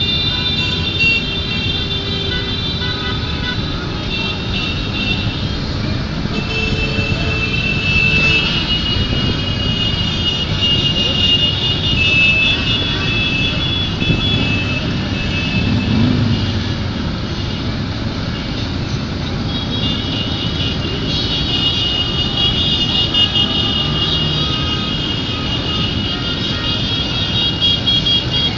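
A long stream of motorcycles riding past, many engines running together in continuous traffic noise, with high steady tones coming and going over it.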